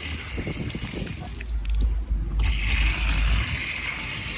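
Water running from a beach foot-rinse shower, a steady hiss, with a loud low rumble of wind or handling on the microphone for a couple of seconds in the middle.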